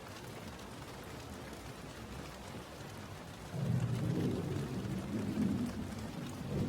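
Steady rain falling, with a low roll of thunder that swells about halfway through and dies away over the next few seconds.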